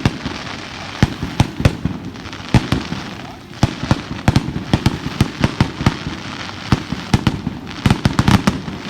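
Fireworks going off in a rapid, irregular string of sharp bangs and cracks, dozens of them, packed most densely in bursts about halfway through and again near the end.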